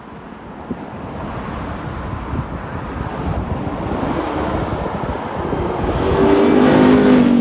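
Ram TRX pickup's supercharged V8 driving in, the engine and road noise growing steadily louder as it approaches, loudest about six to seven seconds in.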